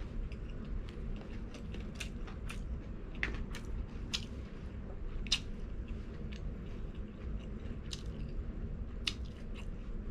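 A person chewing crispy fried food close to the microphone, with irregular sharp crunches and mouth clicks over a low steady background hum.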